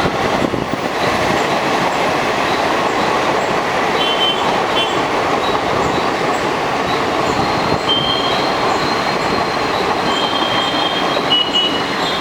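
Coaches of a passenger express train rolling past at track side, a steady loud rumble and rush of wheels on rails, with short high wheel squeals several times.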